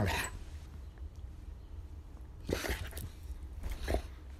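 Dog barking: a bark cuts off right at the start, then a lull broken by a short, breathy dog sound about two and a half seconds in and a fainter one near the end.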